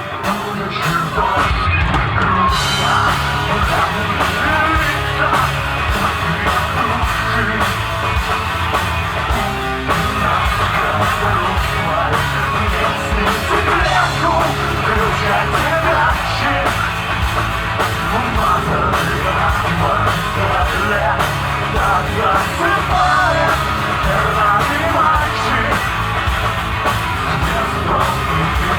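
Alternative rock band playing live, with a driving drum kit and shouted vocals.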